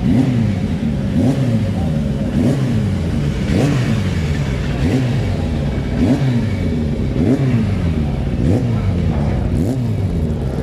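Classic motorcycle engine revved in repeated short throttle blips, about one every second or so, the pitch rising and falling each time.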